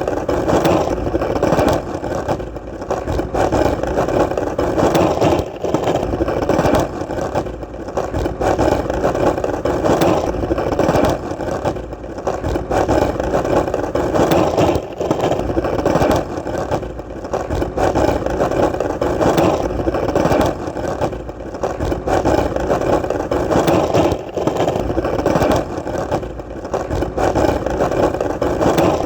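Skateboard wheels rolling on hard ground: a steady rumble that swells and dips every second or two, with small clicks over it.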